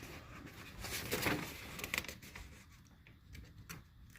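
Paper model-kit instruction sheets rustling and crinkling as the pages are turned one-handed, with a few light clicks of handling.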